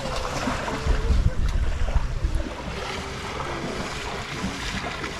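Wind buffeting the microphone over the wash of sea water around a boat at rest, strongest in gusts about a second in, then settling to a steady softer rush.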